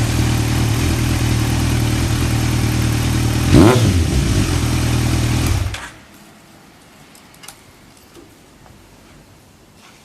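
Kawasaki ZRX1200R inline-four idling through an Akrapovic aftermarket exhaust, with one quick throttle blip about three and a half seconds in. The engine is switched off about six seconds in, leaving a few faint ticks.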